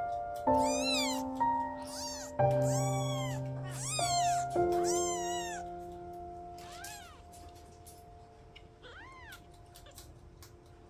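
Six-day-old kittens mewing: a run of thin, high cries, each rising and falling, several in the first half and a couple more, fainter, later on. Soft piano music plays underneath.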